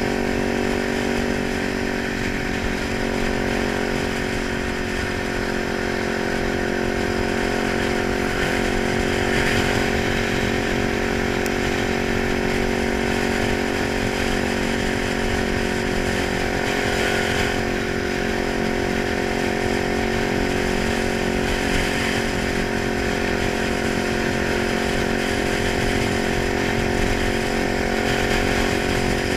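Kawasaki 900 motorcycle engine running at a steady speed, with an even, unchanging pitch.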